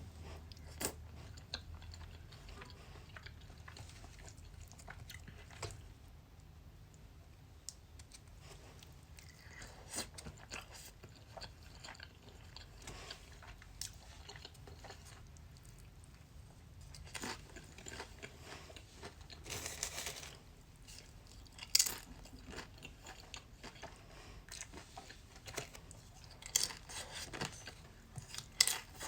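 A person eating crunchy food close to the microphone: irregular bites and crisp crunches with chewing in between, over a low steady hum. The sharpest, loudest crunches come about two-thirds through and again near the end.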